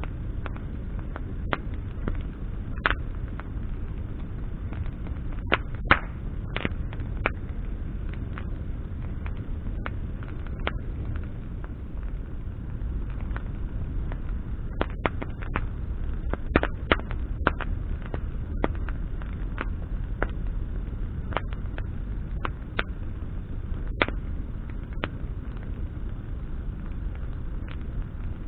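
Bonfire of burning branches crackling, with irregular sharp pops and snaps over a steady low rumble of the flames.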